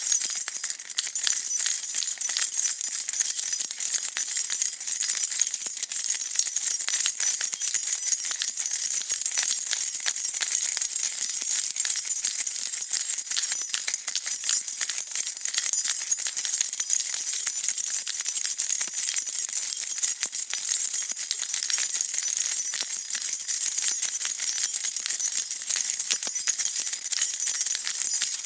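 A bunch of metal keys being shaken and jingled continuously, a dense, steady stream of bright metallic clinks.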